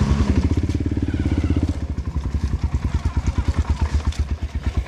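Single-cylinder four-stroke engine of a Honda CRF150L trail bike running at low revs, its exhaust pulses fast and even. It gets quieter about two seconds in as the throttle eases.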